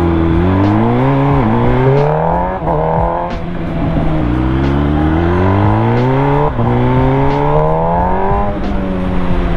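MV Agusta Brutale 1000's inline-four engine accelerating through the gears: its pitch climbs again and again, each climb cut off by a quick upshift, then it settles to a steady note near the end.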